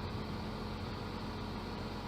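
Scania truck's diesel engine running steadily: a constant drone with a steady hum over it.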